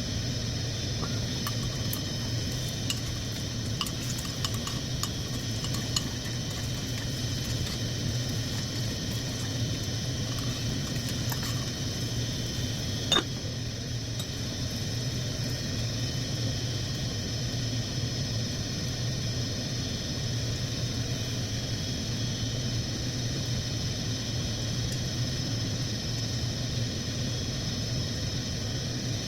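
An egg frying in coconut oil in a ttukbaegi earthenware pot: faint sizzling with a few sharp pops, over a steady low hum.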